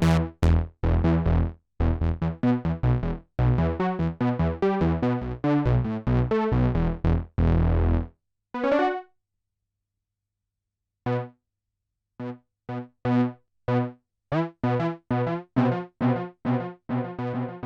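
Sequential Trigon 6 analog polyphonic synthesizer played dry in short, sharply cut chords and notes. About halfway through there is one wavering note, then a pause of about two seconds, then a run of short repeated notes that comes faster toward the end.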